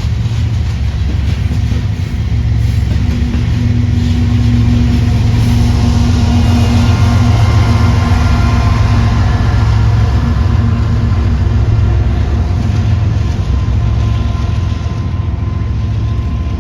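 Train passing close by, its diesel locomotive engine running with a steady low rumble that grows louder about three seconds in.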